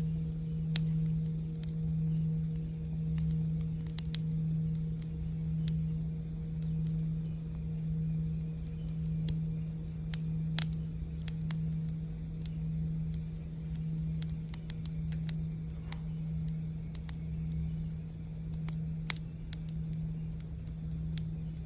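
A singing bowl sounding a low sustained tone with a slow, regular wavering swell, under the steady sharp crackle and pops of a campfire.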